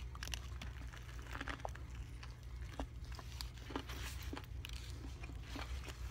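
A person biting into and chewing a toasted Subway veggie sub close to the microphone, with irregular small mouth clicks and smacks, over a steady low hum.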